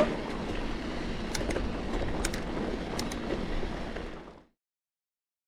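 Steady low rumbling noise like wind buffeting the microphone, with a few light clicks, cutting off abruptly to silence about four and a half seconds in.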